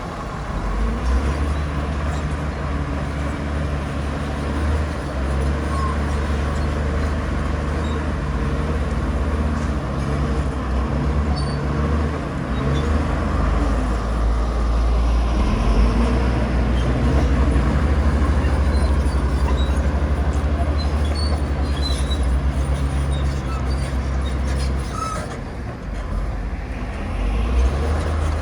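Heavy diesel engine of earthmoving machinery running with a steady low drone, easing off briefly near the end and picking up again.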